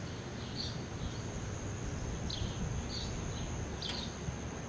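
Small birds chirping outdoors, short high calls about once a second, over a steady thin high-pitched whine and a low background rumble.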